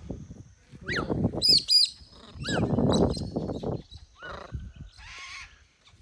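Pet parrots calling in short whistles and squawks, with a noisy squawk about five seconds in; louder rustling comes around one second and again around three seconds.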